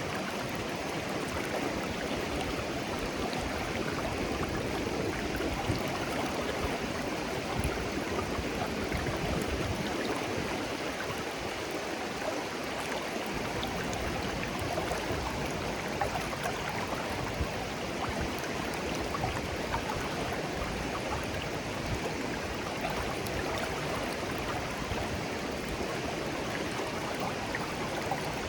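Shallow clear stream flowing gently over stones, a steady babbling with small splashes and trickles.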